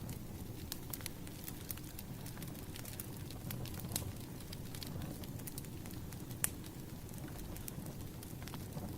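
Wood fire burning: irregular sharp crackles and pops over a low steady rumble of the flames, with one louder pop about six and a half seconds in.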